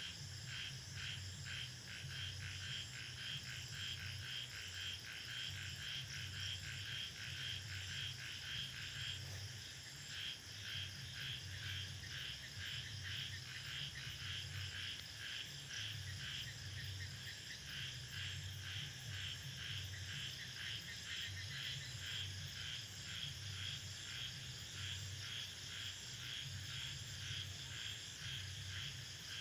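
Rainforest night chorus of crickets and frogs: a steady chirping pulse about four times a second, over a lower throbbing call.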